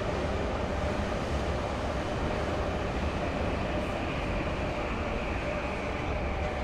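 A train running past with a steady rumble, and a faint whine that slowly falls in pitch.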